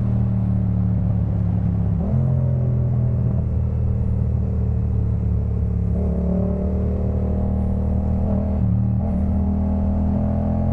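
Yamaha MT-07's parallel-twin engine running through a Jeskap K4 full aftermarket exhaust while riding at a fairly steady throttle. The pitch steps up slightly about two seconds in and again around six seconds in.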